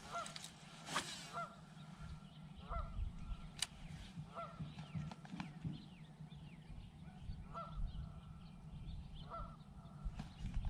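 Geese honking, a series of short faint calls about every second or two, with a few sharp clicks among them.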